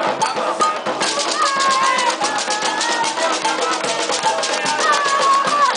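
Candomblé ritual music: hand drums struck in a fast, even rhythm under singing voices. The drumming gets brighter and denser about a second in.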